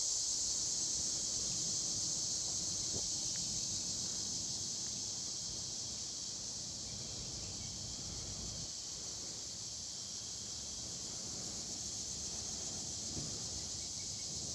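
Cicadas, called locusts here, droning steadily in a high, even chorus, over a low rumble.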